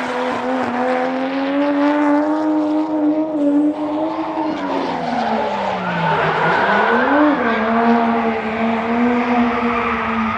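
A drift car's engine held at high revs through a slide, with tyre squeal over it. The engine note sags about halfway through and climbs back up a couple of seconds later.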